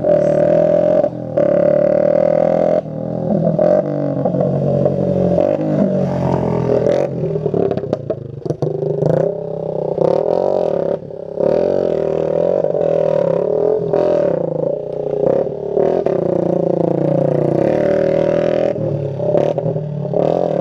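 Small motorcycle with a loud open exhaust revving hard, its engine note held high and wavering up and down, broken now and then by short drops as the throttle is let off.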